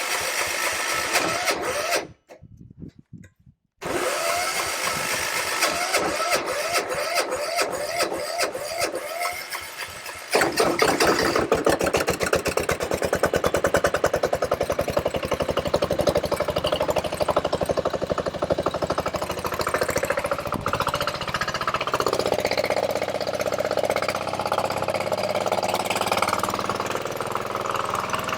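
Small single-cylinder diesel generator engine cranked by its electric starter with the compression release down: a short crank, a pause, then a longer crank. About ten seconds in it fires and runs on by itself, a fast steady knocking beat that eases a little near the end.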